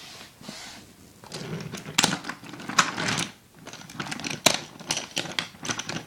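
Irregular light clicks and clatters of small hard toy pieces being handled, a few sharper taps standing out.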